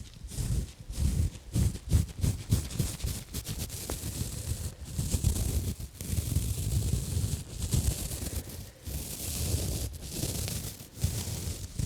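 Textured exfoliation gloves rubbed and scratched close around a microphone: a run of quick scrubbing strokes with deep thuds, turning to a steadier, hissier swirling rub around the middle before the short strokes return near the end.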